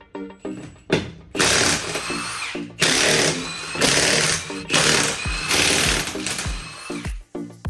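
A power tool running in repeated bursts of about a second each, its whine dropping in pitch as each burst ends, over background music.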